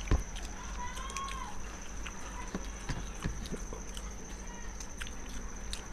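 Eating sounds: irregular small clicks and smacks of chewing and of hands or utensils on plates, with one sharp knock right at the start and two short arching squeaks, about a second in and past the middle, over a steady faint high whine.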